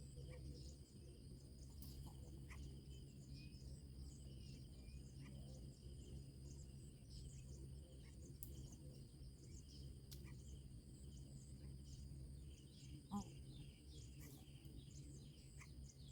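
Faint outdoor ambience: a steady insect drone with scattered faint bird chirps over a low hum. A brief, louder pitched call stands out about 13 seconds in.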